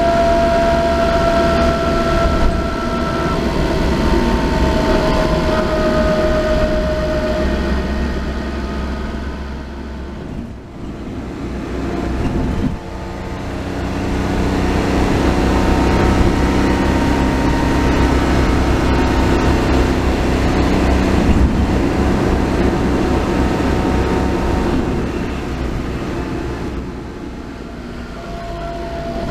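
Car on the move, engine and road rumble under a whining tone from a transmission with an abnormal noise, the whine shifting in pitch as the speed changes. The sound eases off twice: about ten seconds in and again near the end.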